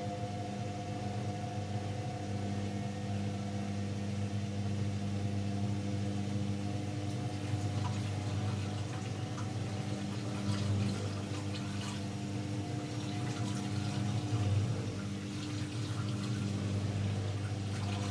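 AEG Lavamat L74810 washing machine running mid-cycle: a steady hum from the machine, with water running and splashing inside it from about halfway through.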